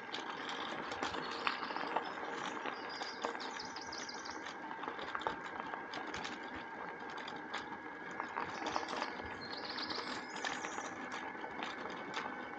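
Bicycle rolling along a country path, with steady rattling and light, rapid ticking from the bike. Faint bird chirps come twice, a couple of seconds in and again near the end.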